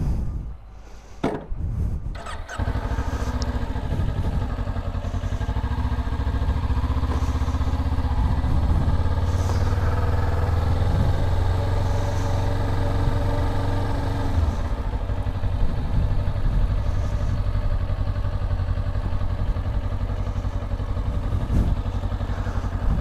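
A few knocks, then a motorcycle engine starting about two and a half seconds in and running steadily.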